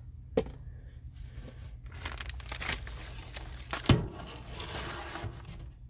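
A board being shifted into place over attic insulation: rustling and scraping, with a short knock about half a second in and a louder knock just before four seconds in.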